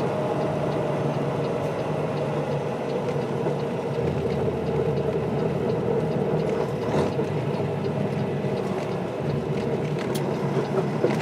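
Semi-truck diesel engine running, heard from inside the cab as a steady drone.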